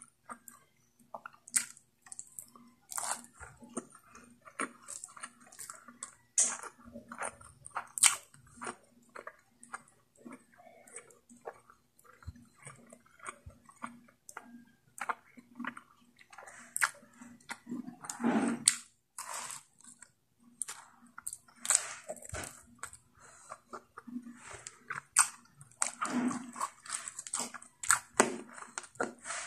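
Chewing and biting: a person eating spicy pork curry with rice by hand, making many short, irregular mouth and food sounds.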